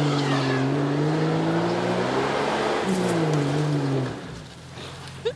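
Jeep's straight-six engine revving under load, its pitch sagging and climbing again, until the engine sound drops away about four seconds in. A brief sharp squeak near the end.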